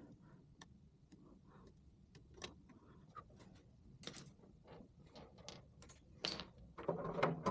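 Light metallic clicks and scrapes of a small screwdriver and tools working on the screw of the ignition points inside a VW Beetle distributor, ending in a louder clatter of metal near the end.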